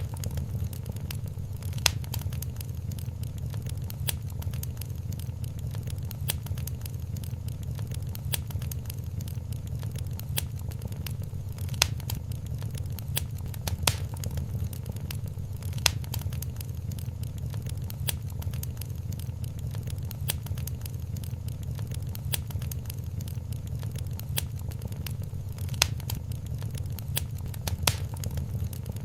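Wood fire crackling in a fireplace: irregular sharp pops and snaps, a few much louder than the rest, over a steady low rumble of the burning flames.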